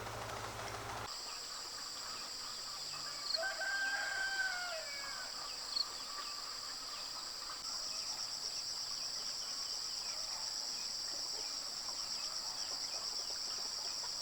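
A rooster crows once, about three seconds in, a call of a second and a half that rises and then falls. Behind it a steady high insect drone turns into a fast pulsing trill about halfway through.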